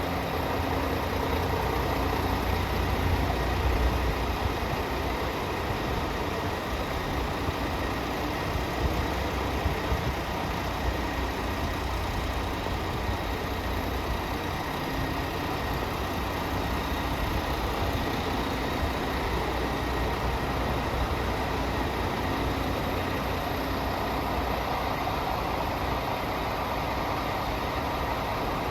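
Scania R450 Euro 6 truck's 13-litre straight-six diesel idling steadily.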